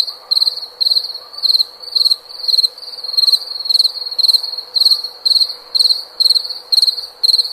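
A cricket chirping: short, pulsed chirps repeated in an even rhythm, a little more than two a second, with a faint steady tone underneath.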